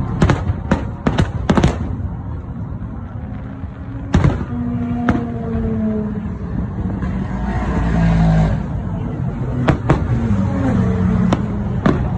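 Fireworks shells bursting in sharp bangs: a quick cluster in the first two seconds, two more around four to five seconds in, and several near the end. Under them runs a continuous low rumble with drawn-out pitched drones that slide slightly in pitch.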